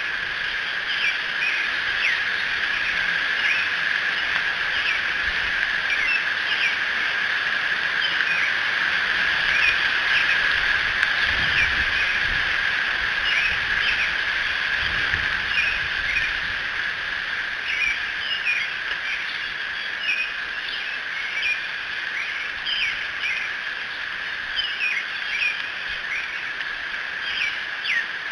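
Wild birds chirping and calling outdoors at dawn: many short high notes scattered all through, over a steady background hiss.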